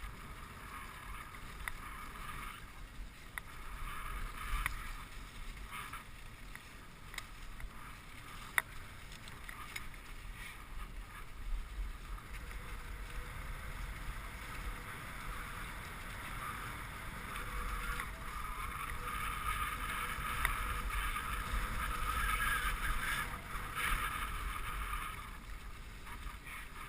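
Dog sled gliding along a snow trail behind a four-dog Siberian Husky team: a steady hiss of the runners on snow that grows louder about two-thirds of the way through, with a few sharp clicks.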